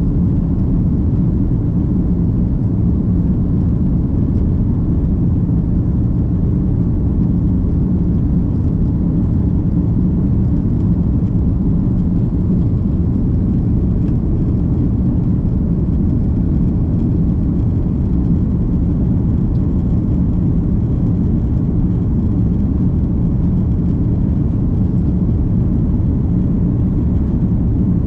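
Steady low rumble of an Airbus A330 airliner's jet engines and airflow, heard from inside the passenger cabin, without change in pitch or level.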